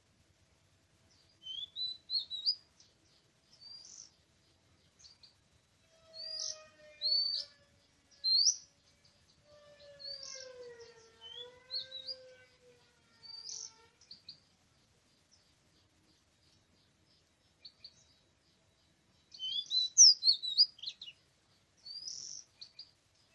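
Oriental magpie-robin singing in short, sharp, whistled phrases, spaced out and bunching into a rapid flurry near the end. Twice in the first half, a longer, lower, wavering call with overtones sounds beneath it.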